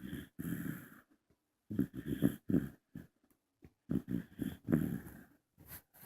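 Bull terrier snoring in her sleep: three snores about two seconds apart, each a quick fluttering series, with quiet pauses between.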